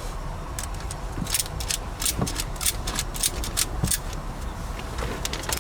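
Irregular metallic clicking and rattling of tie-down hooks and strap hardware being handled while a couch is rigged to a car.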